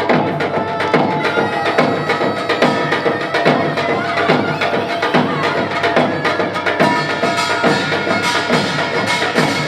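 Korean pungmul percussion ensemble playing a fast, steady beat of drums and gongs.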